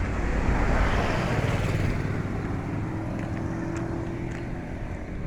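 Diesel truck engine running steadily, with a brief swell of noise about a second in.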